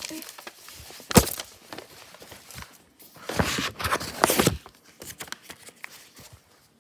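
Knocks and scuffing from indoor movement and handling: one sharp knock about a second in, then a rustling, scuffling stretch with a few knocks around three to four and a half seconds.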